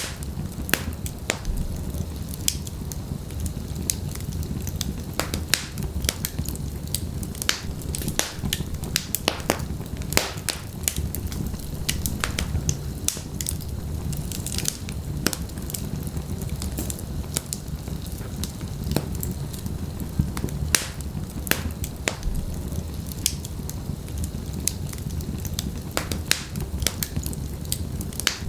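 Wood fire burning in a fireplace: logs crackling with irregular sharp pops, several a second, over a steady low rumble of the flames.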